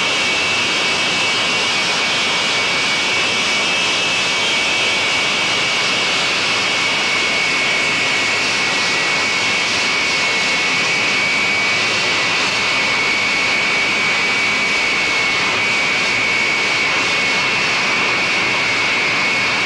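Jet aircraft engines running steadily, a high, constant-pitched whine over a loud rushing noise.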